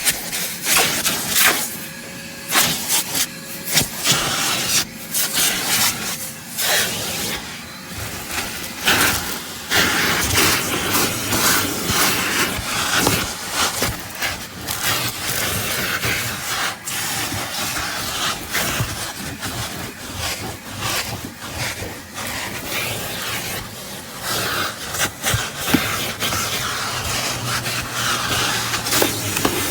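Vacmaster 6-gallon wet/dry shop vacuum running, with irregular rushing and scraping as its hose nozzle is worked over debris.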